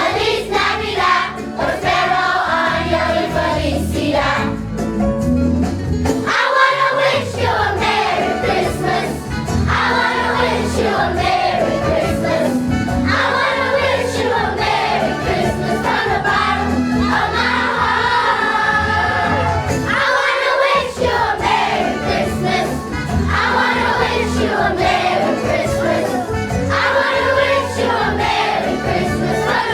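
Student choir singing a holiday song over instrumental accompaniment with a steady bass line.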